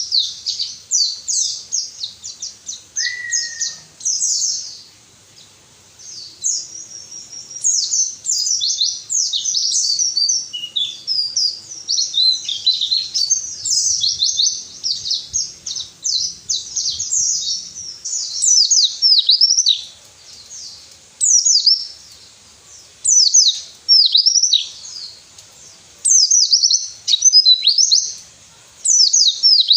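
White-eye (pleci) singing: rapid, high, twittering phrases of quick falling notes, broken by short pauses.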